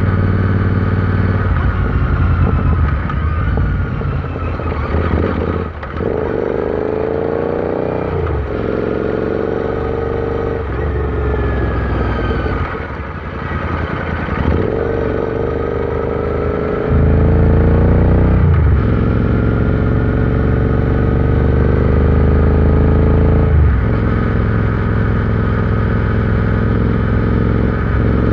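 Royal Enfield Interceptor 650's parallel-twin engine under way. Its pitch climbs steadily under throttle, then drops sharply about six times as the rider shifts gears.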